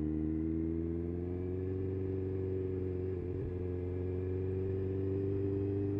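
Motorcycle engine running steadily while riding, its note dipping briefly about three seconds in.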